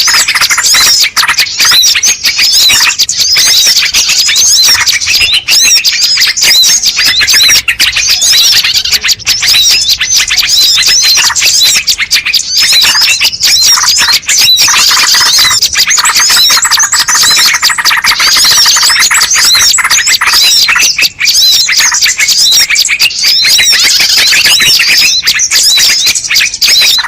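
A loud, dense flock of small songbirds chirping and twittering nonstop, many rapid overlapping calls at once: a bird-lure (pikat) recording used to draw wild birds in.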